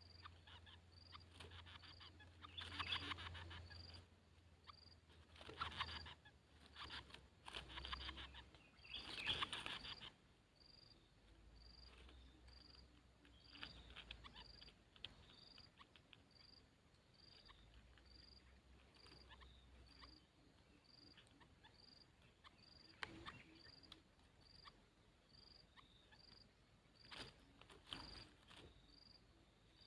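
Short scratchy rustling noises from a coucal chick at its nest, several in the first ten seconds and a couple more later. Under them a faint high chirp repeats evenly about once every 0.7 s.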